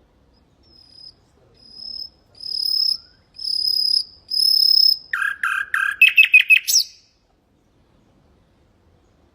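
Common nightingale singing one song phrase: a row of pure whistled notes on one high pitch, each louder than the last, then a fast rattling trill of lower notes.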